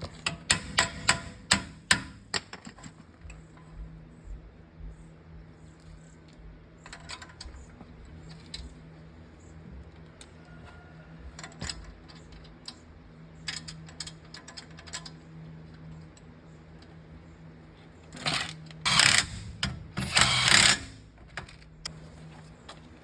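Tool work on a car: a quick run of metal clicks and knocks, scattered clicks, then two short loud bursts of a power tool near the end, over a steady low hum.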